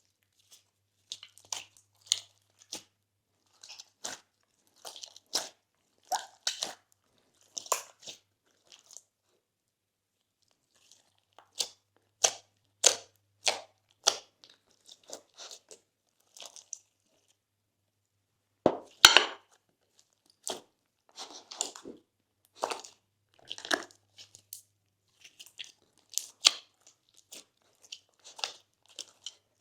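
Slime being squished and worked by hand, giving irregular crunchy crackles and pops. There are a couple of brief pauses, and the sharpest pop comes about two-thirds of the way through.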